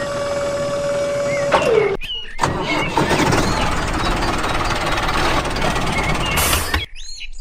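A small motor running with a steady whine that winds down and stops about two seconds in. After a short break comes a loud, even, engine-like rushing noise with faint high chirps over it, which cuts off suddenly near the end.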